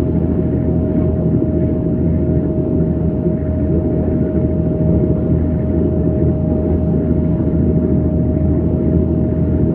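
Steady low engine rumble with one constant hum held over it, unchanging throughout.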